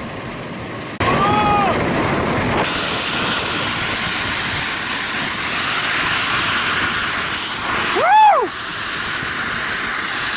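Helicopter noise, a loud steady rush with a thin high whine, heard in flight. A person's voice gives two short rising-and-falling shouts: a brief one about a second in and a louder one near the end.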